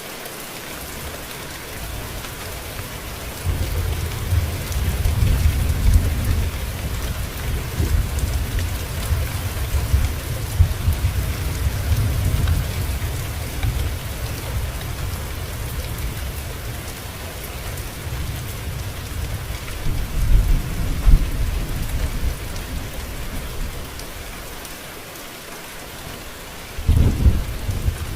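Steady rain falling, with low rolling thunder that swells about three seconds in and rumbles for roughly ten seconds, comes back around twenty seconds in, and once more near the end.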